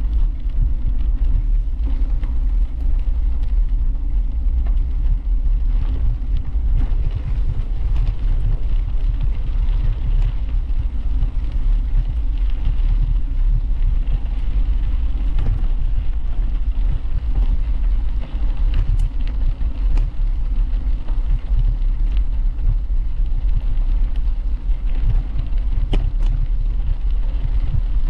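Wind buffeting the microphone of a camera riding on a moving bicycle: a steady, fluttering low rumble, with a few faint clicks and rattles from the bike on the path.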